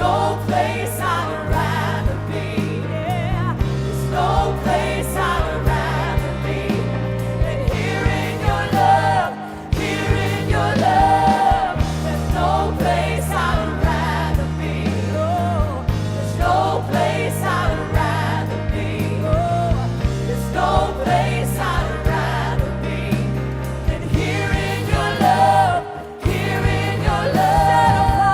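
Slow worship song: a voice singing over sustained keyboard and bass chords, with a steady beat.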